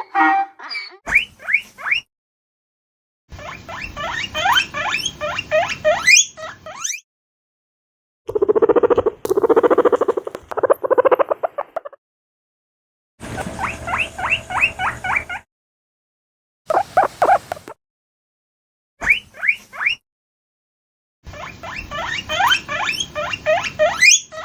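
Guinea pigs squealing in runs of short, rising squeaks, about four a second, in several separate bursts with silent gaps between them. In the middle comes a lower, buzzing pulsed rumble. The first second is the tail of a donkey's bray.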